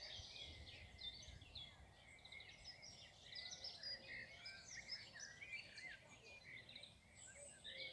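Faint songbirds singing, many short chirps, twitters and trills from several birds overlapping throughout.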